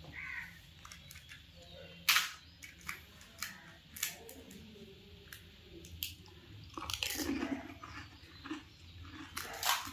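Pani puri being crunched and chewed: crisp fried puri shells cracking between the teeth, with wet chewing between the crunches. The crunches come at irregular intervals, the sharpest about two seconds in.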